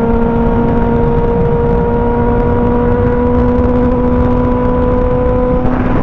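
2025 Kawasaki ZX-6R's 636 cc inline-four engine running at a steady cruise, its pitch creeping slowly upward as the bike gently gains speed in one gear, over a steady rush of wind and road noise.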